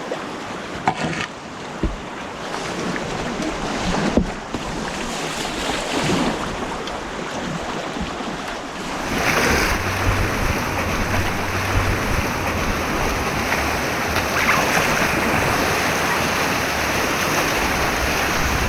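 Rushing white water of an artificial slalom course heard close up from a kayak, a continuous wash with a few sharp knocks in the first few seconds. It grows louder and fuller about nine seconds in.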